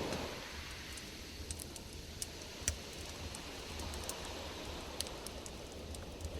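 Campfire crackling: a soft steady hiss with scattered sharp pops and snaps, the loudest pop about two-thirds of the way in, over a low rumble.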